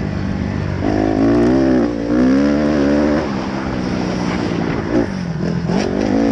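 Dirt bike engine running, its pitch rising and falling as the throttle is worked, dipping low shortly before the end and climbing again.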